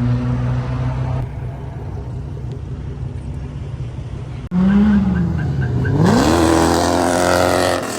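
Car engine idling steadily. After a sudden cut a little past the middle, an engine is revved: its pitch dips, then climbs sharply, and it stays loud near the end.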